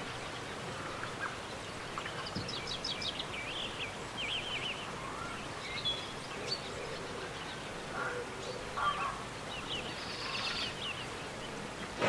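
Steady background hiss with small birds chirping: quick runs of short, high chirps a few seconds in and again near the end, with an occasional faint click.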